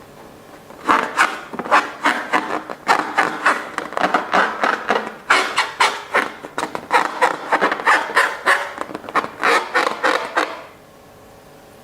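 Close-up handling noise: a quick, irregular run of crackles and rubbing strokes that starts about a second in and stops abruptly near the end.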